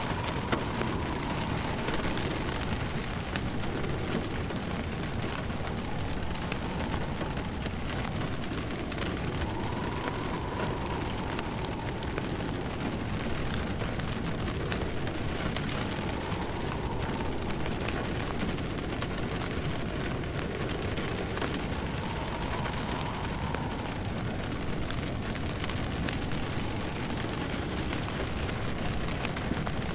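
Steady rain with a crackling wood fire in a fireplace, and a faint whistling wind that swells and fades every few seconds.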